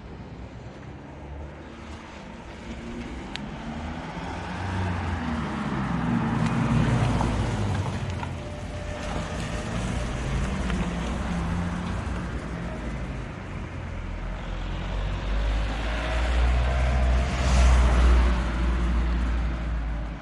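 Motor vehicles passing on a road, a steady traffic rumble that swells twice as vehicles go by, the second pass the loudest.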